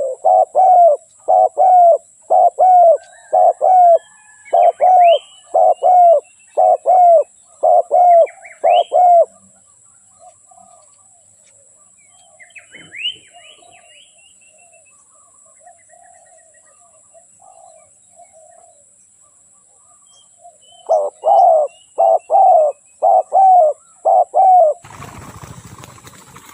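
Spotted dove cooing: a rapid series of short, low coo notes at about two a second, stopping after about nine seconds and starting again in a second run of about eight notes later on. Faint chirps of other small birds come through in the gap, and a burst of rough noise starts just before the end.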